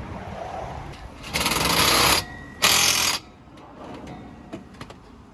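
Impact wrench hammering in two bursts, the first about a second long and the second about half a second, running down the exhaust bolts; a few faint clicks follow.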